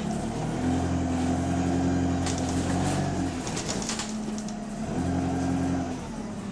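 Bus engine drone heard from inside the bus: a deep hum of steady low tones that swells louder twice, about half a second in and again near the end, the sound of a bus with an exhaust leak.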